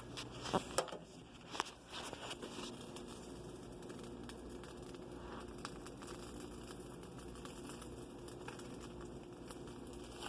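Grilled cheese sandwich frying in a pan, a steady faint sizzle and crackle as the cheese melts. A few sharp clicks in the first couple of seconds.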